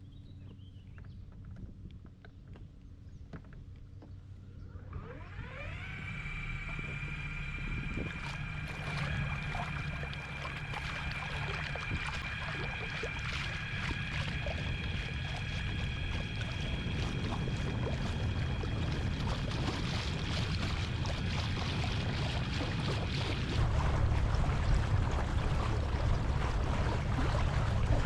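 A small motor whine that rises in pitch about five seconds in and then holds steady, over a low hum and water and wind noise. The whine stops a few seconds before the end as the rushing noise grows louder.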